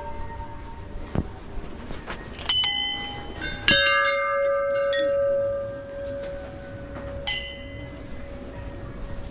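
Metal bells struck one after another, about four strikes of different pitches, each ringing on and overlapping; the strike about a third of the way in is the loudest and rings for several seconds.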